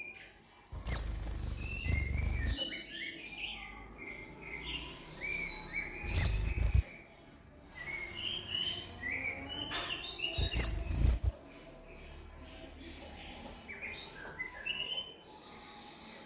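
A sunbird (kolibri ninja) singing: a rapid run of short, varied twittering chirps, cut through three times, about every four to five seconds, by a loud, sharp, falling high note.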